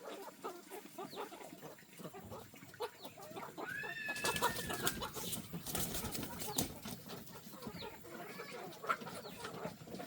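Chickens clucking, several birds calling over one another, with one longer drawn-out call about four seconds in.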